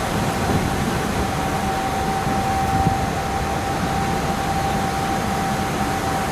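KiHa 40 series diesel railcar under way, heard through a wide-open window: a steady rumble and rush of running noise with a thin, steady whine held throughout.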